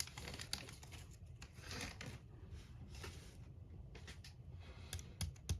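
Faint rustling and light clicking of small plastic parts bags and model-kit pieces being handled, with a few sharper clicks near the end.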